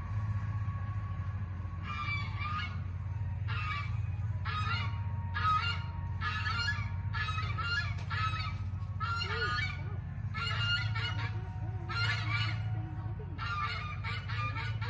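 Birds honking: a run of short honking calls, one or two a second, starting about two seconds in, over a steady low hum.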